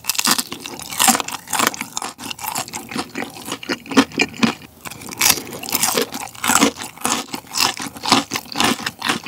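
Close-miked chewing of a deep-fried battered sausage: the crisp fried batter crunching in many quick, irregular crackles with wet mouth sounds.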